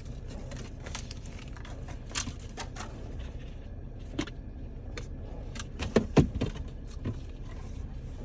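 Sharp plastic clicks and rattles of a Mini Brands capsule being handled and worked at to open it, the loudest cluster about six seconds in, over a steady low rumble.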